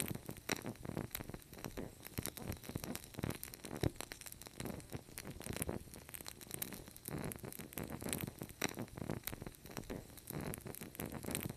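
Wood fire crackling, with dense irregular pops and snaps over a soft hiss.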